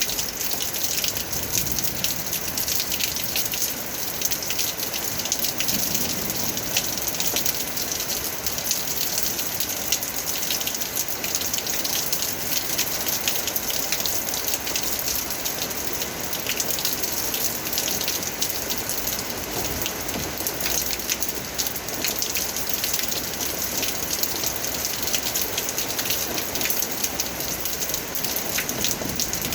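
Steady rain falling, with many small, close-spaced drop impacts over an even hiss.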